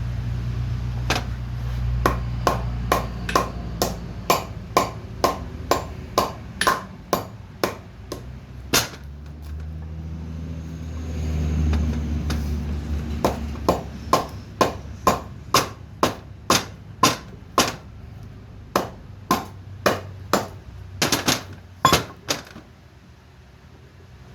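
Hammer striking metal in steady, evenly paced blows, about two a second. There is a pause of a few seconds near the middle, filled by a low rumble, before the blows resume.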